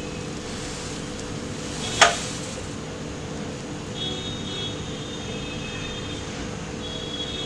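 Steady hum of a convection microwave oven running as it preheats, with one sharp clink about two seconds in.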